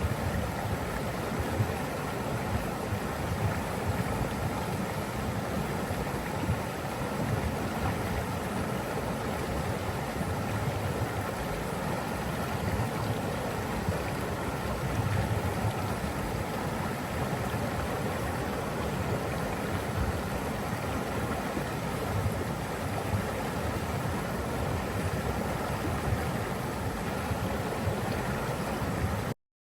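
Steady rushing water of a waterfall or stream, a continuous deep wash of noise that cuts off abruptly near the end.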